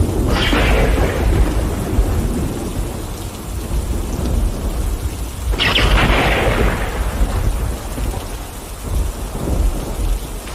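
Thunderstorm: steady rain with continuous low thunder rumbling, and two sharp thunderclaps, one just after the start and one about halfway through, each fading off over a second or two.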